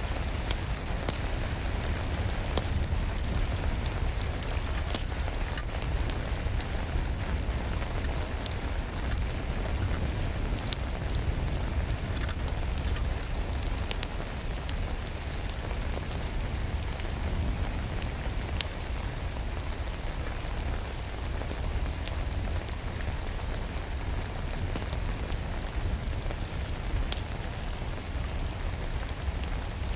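Steady rain falling, with a deep constant rumble underneath and scattered sharp crackles of a wood fire in a fireplace.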